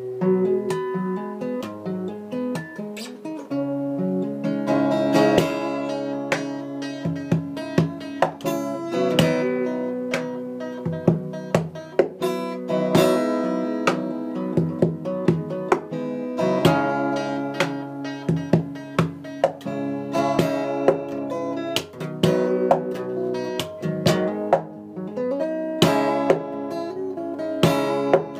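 Solo plucked string instrument playing a flowing melody of ringing, sharply plucked notes, some bent upward in pitch.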